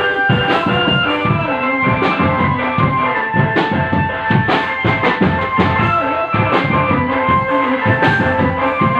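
Drum band playing: steady beats on bass and snare drums, with a melody in held notes carried over the drumming.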